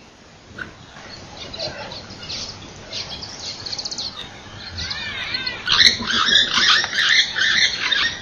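Birds chirping and calling. The calls grow denser and louder about five seconds in.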